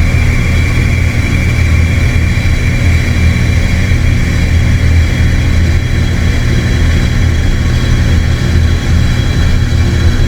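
Dark ambient drone from electronic synthesizers: a loud, dense, steady low rumble with held tones and a hissing noise layer above it, with no beat.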